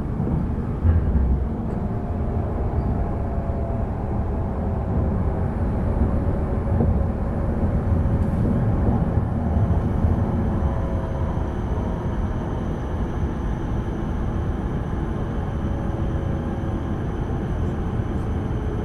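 Running noise of a Tohoku Shinkansen train heard from inside the passenger car: a steady low rumble with a faint whine that slowly falls in pitch as the train slows into the station. A brief knock comes about a second in.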